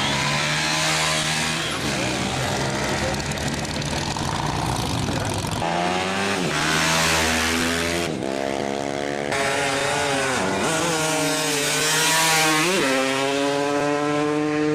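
Off-road racing motorcycle engines running and revving, pitch rising and falling, in several short clips cut together.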